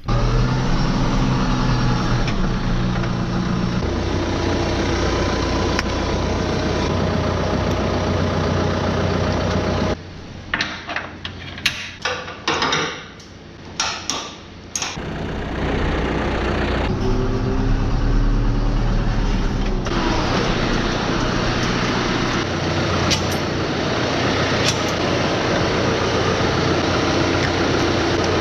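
A motor vehicle's engine running steadily. It drops away about ten seconds in, with a few seconds of irregular clicks and knocks, then runs steadily again.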